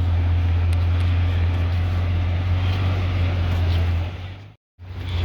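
A car engine running steadily with a deep, even drone. The sound cuts out abruptly for a moment about four and a half seconds in, then comes back.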